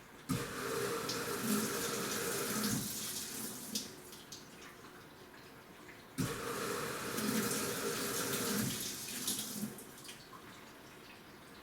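Washing machine agitating its load: water sloshing and swishing in the drum in spells of about four seconds, each starting abruptly, twice, with quieter pauses between.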